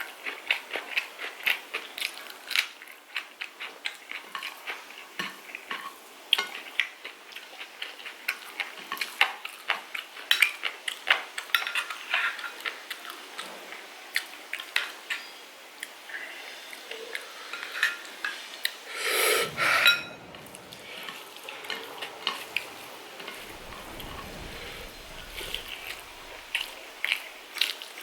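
Many short clicks and clinks of a plate and cutlery as someone eats chicken curry, with a louder burst of noise lasting under a second a little past the middle.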